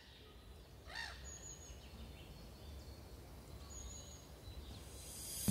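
Faint outdoor ambience with a single short bird call about a second in, followed by two faint, thin, high whistles.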